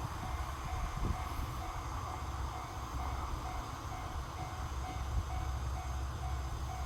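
Diesel railcar running along the line, a steady low engine and wheel rumble. A faint short beep repeats about twice a second.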